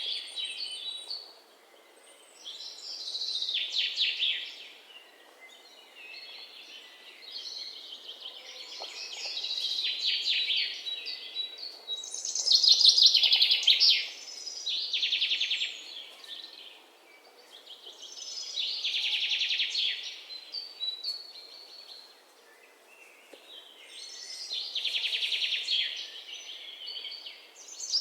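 Birds singing: trilled, chattering phrases every few seconds, each lasting one to two seconds.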